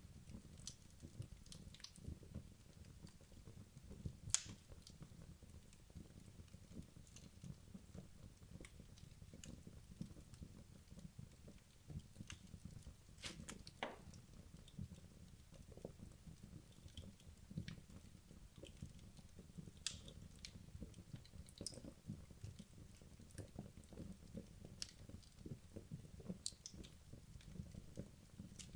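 Wood logs burning in a fireplace, crackling: scattered faint pops and snaps over a low steady rumble, the sharpest crack about four seconds in and another near fourteen seconds.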